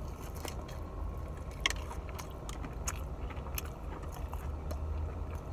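Chewing a mouthful of fried chicken tender, with scattered small wet clicks and crunches, over a steady low hum in a car's cabin.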